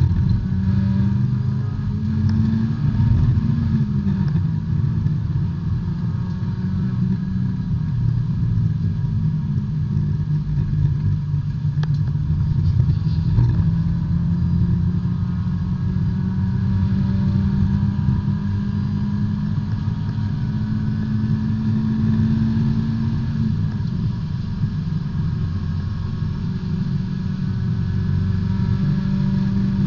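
Small four-cylinder engine of a B-Spec race car heard from inside the car at racing speed. Its note climbs and drops sharply about four seconds in, then holds and climbs slowly until it drops again a little after twenty seconds.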